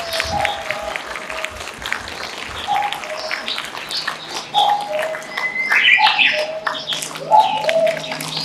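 Theatre audience applauding with scattered cheers and calls from the crowd, plus a few low thumps in the first seconds.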